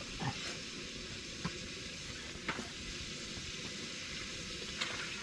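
Campfire burning with a steady crackling hiss and a few sharp pops.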